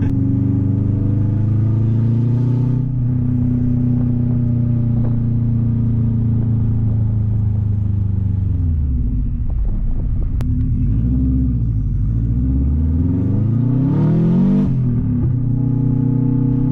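Turbocharged Subaru flat-four exhausting through an open 3-inch catless downpipe with no muffler, loud and raspy, while driving. It holds steady revs, the revs drop about nine seconds in, then climb steeply and fall sharply at a gear change about fourteen and a half seconds in.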